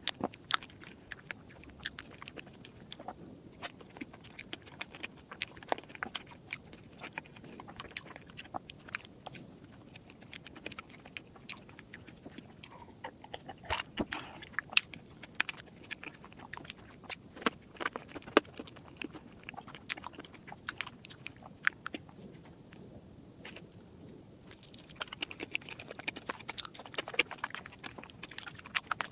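Close-miked eating of chocolate desserts: biting and chewing, heard as a dense, irregular run of sharp crunches and mouth clicks.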